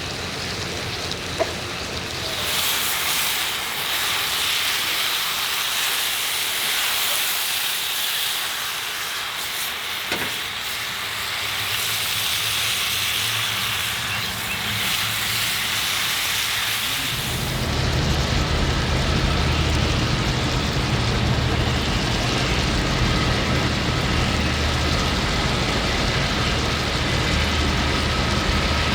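Food frying in a hot skillet, a steady sizzling hiss. About two-thirds of the way through, the hiss drops back and a low steady rumble comes to the fore.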